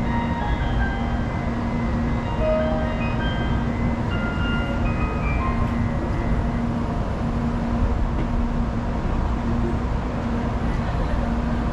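Steady low hum and rumble from a Shinkansen train standing at the platform with its doors closed, waiting to depart. Short chime-like melody notes sound faintly over it in the first half and fade out about halfway through.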